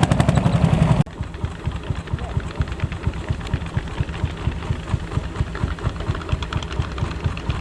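Vintage tractor engine running with a rapid, even exhaust beat. About a second in, the loud beat cuts off suddenly and a quieter, steady pulsing engine takes over.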